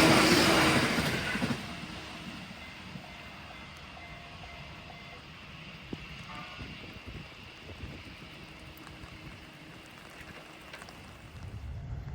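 A train passing close by, its rushing noise dying away about a second and a half in. Then comes a much quieter stretch with a low rumble building near the end.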